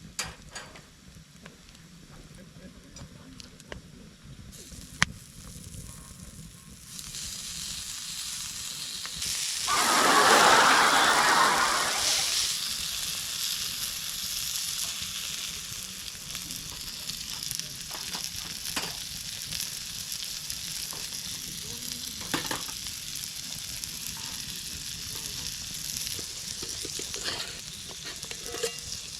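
Food frying in a hot pan: a few clicks at first, then sizzling that starts about seven seconds in, surges loudly for a few seconds as food goes in, and settles into a steady sizzle.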